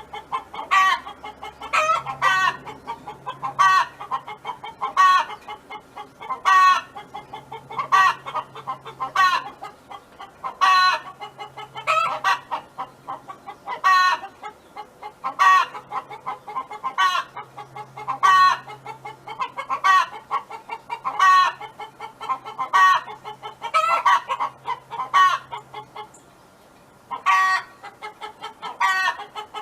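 Domestic hen calling loudly over and over, about one short loud call every second or so, with quieter clucking in between and a brief pause near the end.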